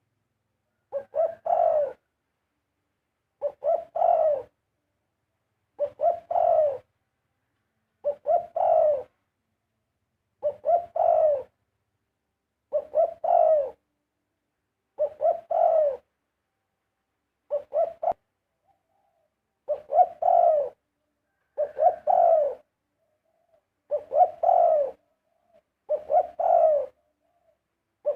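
Spotted dove cooing in a steady series of short, repeated phrases, one about every two seconds, each a low coo of about a second.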